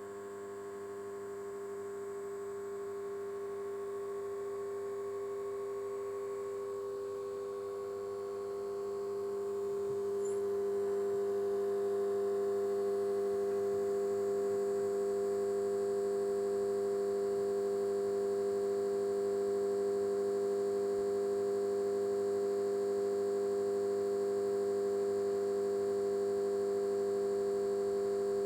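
Inverter voltage stabilizer humming: a steady hum of several tones together with a faint high whine. It grows a little louder over the first ten seconds or so, then holds steady.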